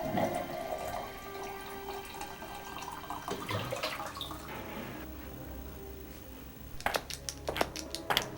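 Water trickling and dripping, with a faint held tone underneath; sharp clicks start about seven seconds in.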